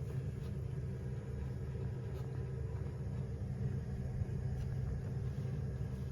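Kitten purring close to the microphone: a steady, low, even rumble.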